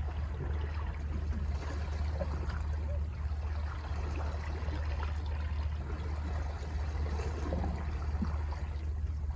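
Sea water washing and trickling among rocks, with a fizzing crackle and a steady low rumble underneath.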